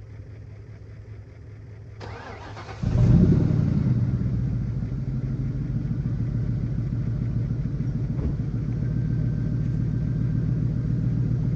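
Ford Mustang's 4.6-litre V8 cranked on the starter for under a second, catching about three seconds in with a loud flare of revs, then settling into a steady idle. The owner thinks the engine has almost no oil in it.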